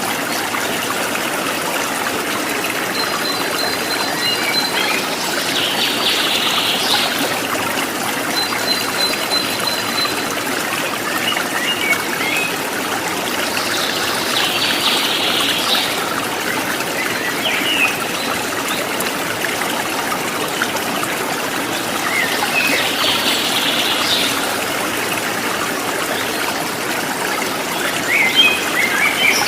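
Steady trickling stream water, with small birds chirping over it. A dense burst of high chirps comes about every eight seconds, a thin high trill sounds twice in the first ten seconds, and there are quick chirps near the end.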